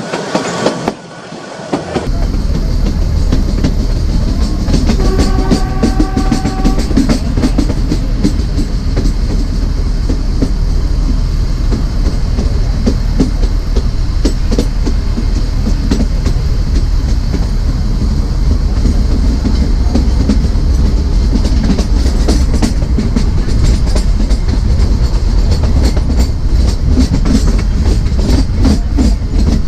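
Narrow gauge train running, heard on board: a steady rumble of wheels on track with rapid clicking over rail joints. A short steady tone sounds for about two seconds, about five seconds in.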